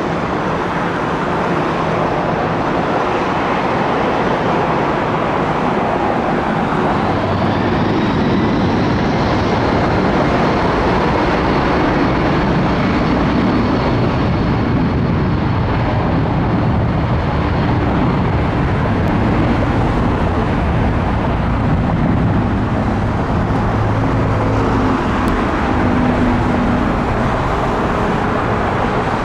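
Jet airliner engines running: a loud, steady rush with a faint high whine that rises about seven seconds in and then holds.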